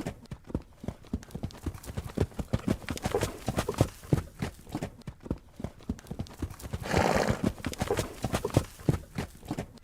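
Horse hooves clip-clopping in a steady, uneven run of knocks, with a short louder sound from the horse about seven seconds in.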